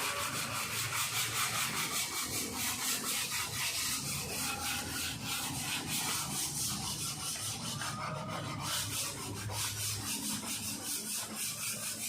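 Sandpaper rubbed back and forth by hand over hardened body filler on a car panel, about four strokes a second, sanding the filler down thin.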